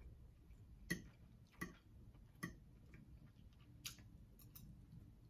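Faint mouth clicks from chewing barbecue ribs, about six short wet ticks spread unevenly over five seconds against near silence.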